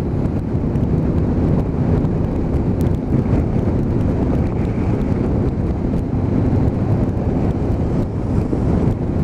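Motorcycle engine running steadily at riding speed, with wind rushing over the microphone.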